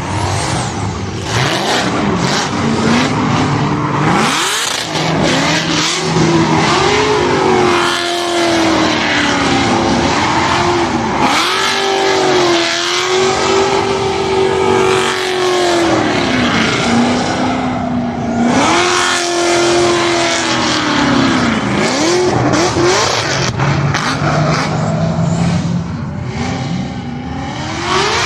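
Car engines revving hard and accelerating, their pitch climbing and falling again and again, with several engines overlapping at times.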